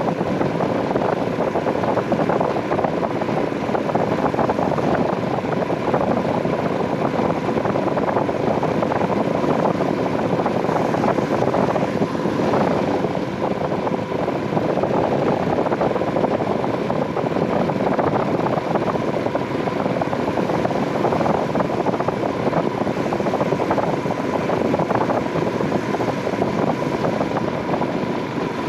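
Royal Enfield Himalayan 411's single-cylinder engine running steadily under way, over an even rush of riding noise with a faint steady whine.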